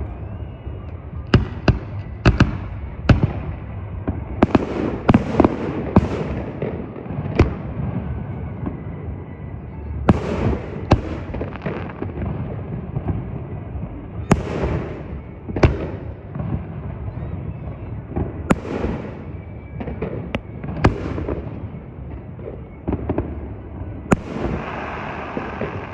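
Fireworks going off: a long, irregular string of sharp bangs, a few seconds apart or in quick clusters, some with a trailing rumble.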